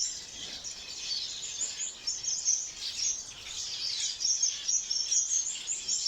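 A flock of small aviary finches chirping together: a dense, continuous chatter of short, high chirps.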